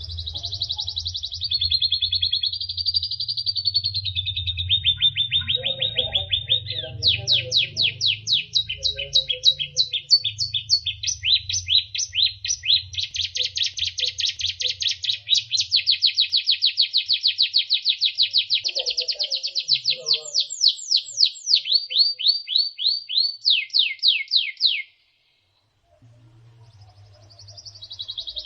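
White-rumped shama (murai batu) singing a long, unbroken run of fast repeated sweeping notes and trills over a low hum. The song cuts off suddenly about 25 seconds in, and after a short silence it starts again near the end.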